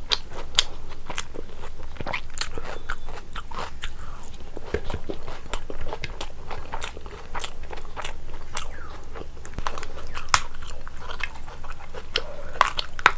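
A person chewing biryani close to the microphone: an irregular run of short, sharp mouth clicks.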